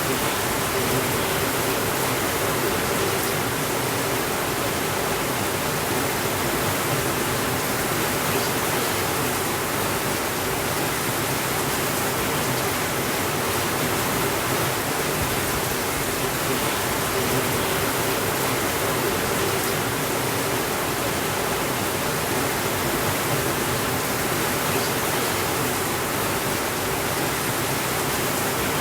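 Steady rainfall, an even hiss that holds one level throughout, with no thunder.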